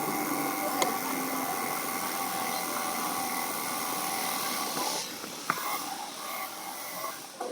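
Steady wind rushing over the microphone of a camera carried on a moving bicycle, with a single sharp click about five and a half seconds in.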